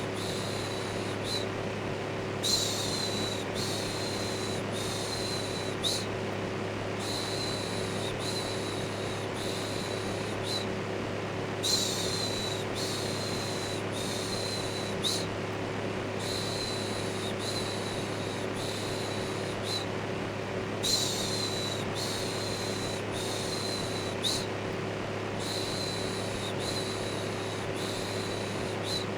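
Electric fan running steadily with a low hum, under a repeated 'shhh' shushing sound. The shushes come in runs of short strokes, each run starting a little louder, with a brief pause about every four to five seconds.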